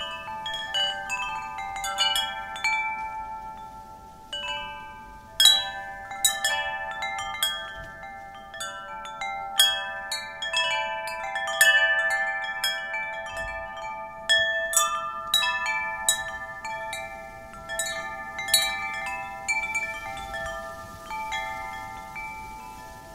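Wind chimes ringing, their metal tubes struck at irregular moments by the wind, each note ringing on and fading, with a faint hiss of wind beneath.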